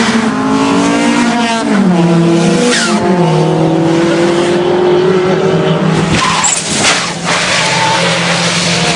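Car engines running hard, their pitch dropping as the revs fall about two to three seconds in. Tyres skid and squeal, with a loud rush of noise around six to seven seconds in.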